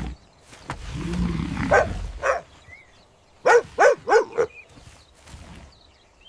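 A cartoon dog barking and yelping in short calls, with a quick run of four barks near the middle, after a low rumble about a second in.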